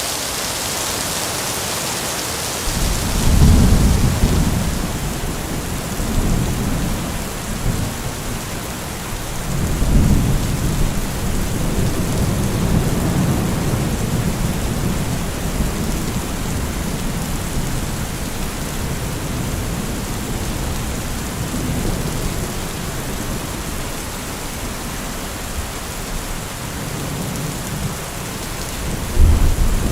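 Heavy rain falling as a steady hiss, with deep low rumbles swelling for a few seconds about three seconds in, around ten seconds in, and again near the end.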